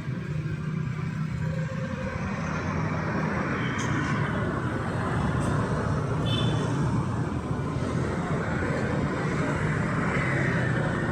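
Street traffic passing: vehicle engines running, with tyre and road noise swelling and easing over several seconds.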